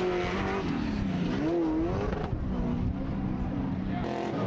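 An off-road race truck's engine revving hard; its pitch dips and then climbs back up about a second in as the throttle is lifted and reapplied, then the note turns rougher and lower.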